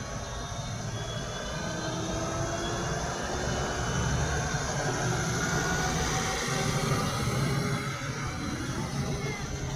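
Farm tractor engine running under load as it works the field, growing louder to a peak about halfway through and then easing off, with faint whines that slide slowly in pitch.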